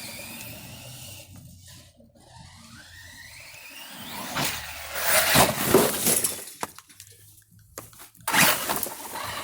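Electric RC truck's motor whining and rising in pitch as it speeds up. Then a loud rough clatter about five seconds in, and another sudden hit a little after eight seconds, as the truck takes off and lands hard from a jump.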